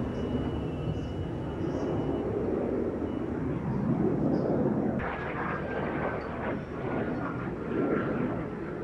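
Fixed-wing aircraft engine noise, swelling and fading as the plane flies a display pass, with a faint whine that drifts slightly lower in the second half.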